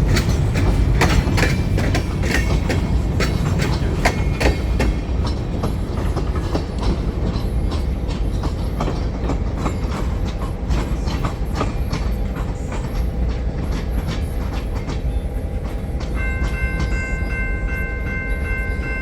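Train running along the track: a steady low rumble with repeated sharp clicks of the wheels over rail joints. About three seconds before the end, a steady chord of several high tones comes in and holds.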